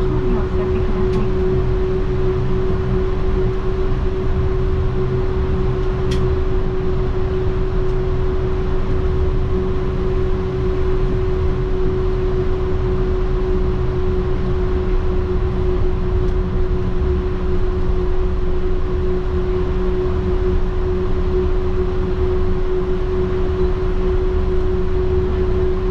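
Yurikamome rubber-tyred automated transit train running at a steady speed, heard from inside the car: a steady drone of tyres and drive with a constant hum. One faint click about six seconds in.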